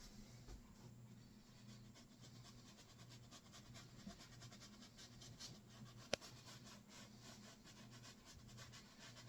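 Faint, quick scratchy strokes of a paintbrush on canvas, over a steady low hum, with one sharp click about six seconds in.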